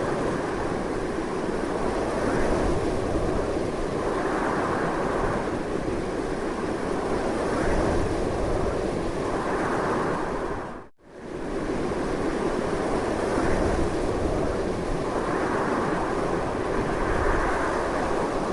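Strong, continuous wind with gusts that swell and ease every few seconds. The sound drops out briefly to almost nothing about eleven seconds in, then comes straight back.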